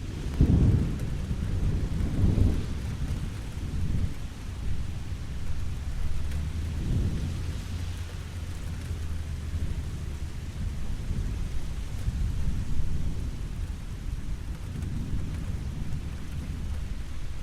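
Steady rainfall with low, rolling rumbles of thunder, the strongest in the first few seconds and another swell about seven seconds in.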